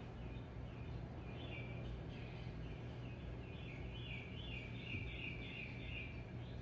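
Birds chirping in the background: a string of short, high repeated notes that come thicker in the second half, over a steady low hum.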